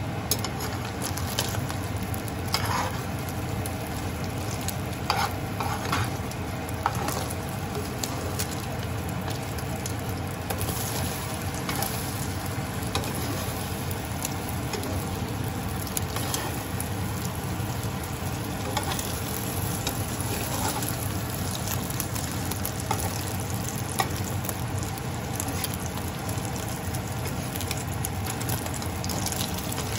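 Egg omelette frying in a nonstick pan with a steady sizzle, while a metal spoon scrapes and clicks against the pan as the omelette is folded over.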